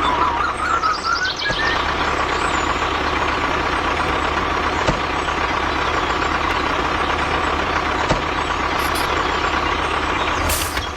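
A motor running steadily with a constant whine, after a warbling, whistle-like tone in the first second and a half.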